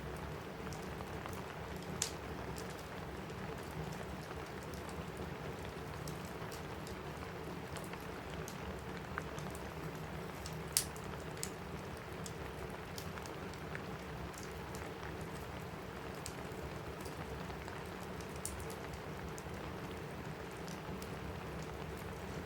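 Steady rain falling on a cabin roof, with a wood fire crackling in a fireplace: sparse sharp pops over the rain, the loudest about two seconds and eleven seconds in.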